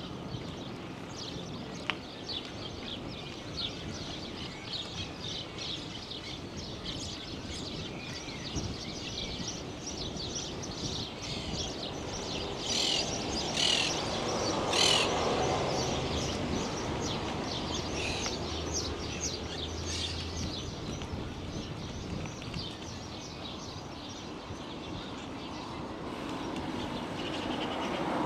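Many small birds chirping, with a louder cluster of calls about halfway through, over a steady outdoor background noise.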